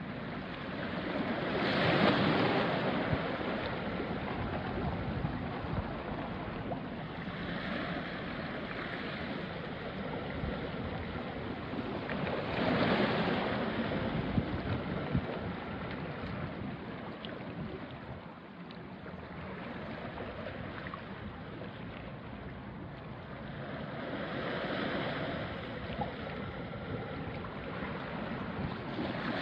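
Small sea waves washing onto a rocky shore, a steady wash of water over rocks. Louder surges come about 2 seconds in, around 13 seconds and again near the end, and the one at 2 seconds is the loudest.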